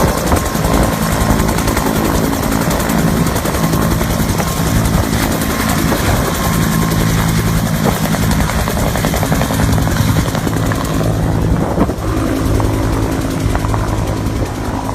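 Search-and-rescue helicopter running loud and steady with a fast, even rotor beat. The higher part of the sound dulls a little about eleven seconds in.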